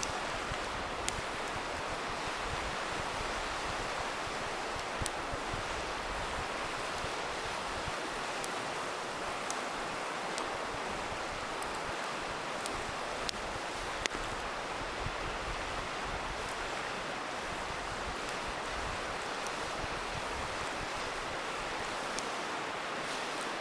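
River water rushing steadily, with a campfire crackling over it in a scatter of sharp pops.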